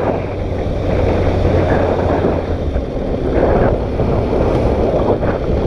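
MV Agusta 675 three-cylinder motorcycle engine running under way, mixed with wind rushing over the microphone; the steady low engine note fades about three seconds in.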